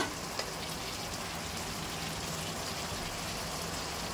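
Prawn and vegetable masala sizzling steadily in oil in a nonstick wok as it cooks down for the oil to separate, with a faint tap of the spatula about half a second in.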